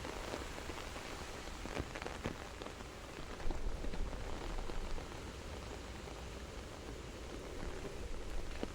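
Soft, steady rain, with individual drops ticking here and there through the hiss.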